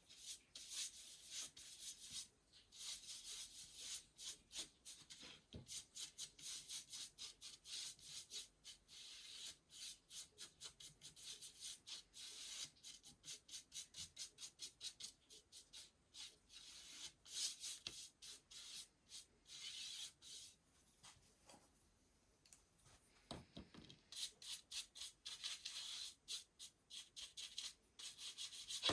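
Paintbrush bristles stroking back and forth over a wooden baseboard: quick, repeated brushing strokes, several a second, with a few short pauses.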